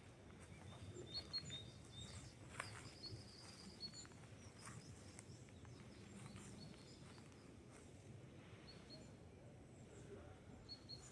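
Near silence: faint outdoor quiet with small birds chirping now and then, short high calls scattered through, and a few faint ticks.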